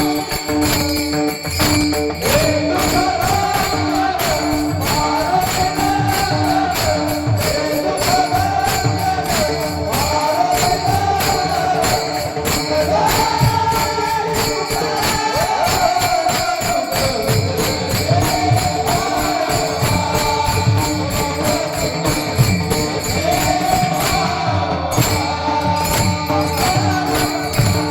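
Instrumental interlude of Marathi kirtan devotional music: a wavering melody over a held drone, kept in time by regular jingling cymbal strokes and drum beats.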